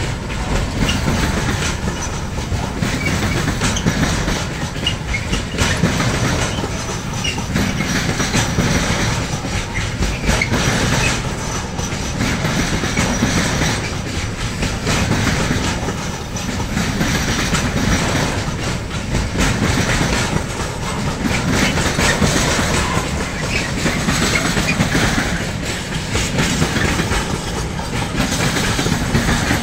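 Freight train wagons rolling past, their wheels clicking over rail joints, with the sound swelling and easing every couple of seconds as the wagons go by.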